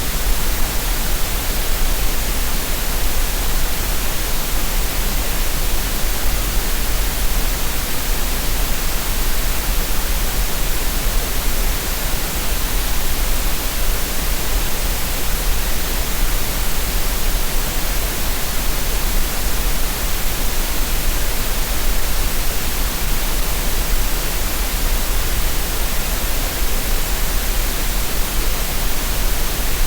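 Steady synthetic green noise: an unbroken even hiss with a deep rumble underneath, with no rhythm or change.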